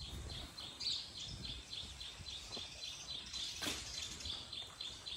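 A bird chirping over and over, short high notes about three a second, over faint outdoor background noise; a single soft knock about three and a half seconds in.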